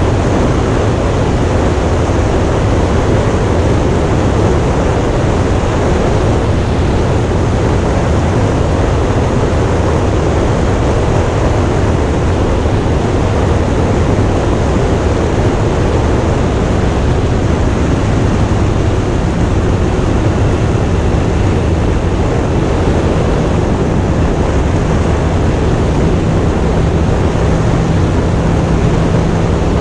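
Motorcycle being ridden at steady speed: a low engine drone under heavy wind rush on the microphone. The engine note shifts slightly about two thirds of the way through.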